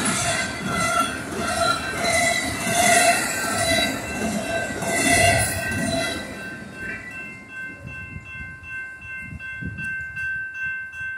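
Double-stack container freight train cars rolling past, rumbling with squealing wheels that swell every couple of seconds, until the last cars clear about six seconds in. The railroad crossing bell then rings on alone and stops near the end.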